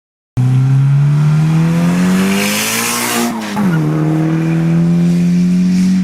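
Turbocharged SR20DET four-cylinder engine of a 1996 Nissan 200SX pulling hard under boost. It starts abruptly a moment in, revs climb steadily, drop sharply at a gear change about three and a half seconds in, then climb again. A hiss rides over the engine just before the shift.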